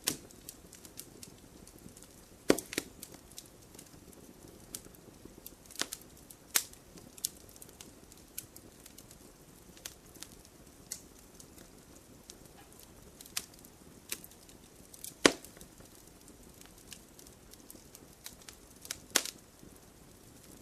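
Wood campfire crackling: irregular sharp pops and snaps over a low hiss. The loudest snaps come about two and a half seconds in, about fifteen seconds in and near the end.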